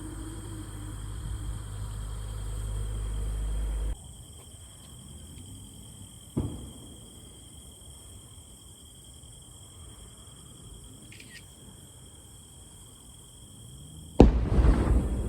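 Fireworks shells bursting: a sharp bang about six seconds in and a much louder boom near the end that rings on, over a steady high-pitched chirring. Before them a low rumble builds and cuts off suddenly about four seconds in.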